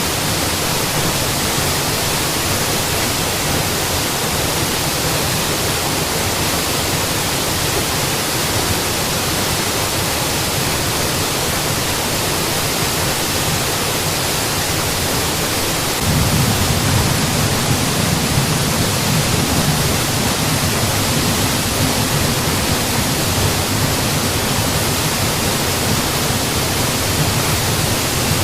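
Mountain waterfall: a steady rush of falling water. About halfway through, the low rumble grows fuller and a little louder, then holds.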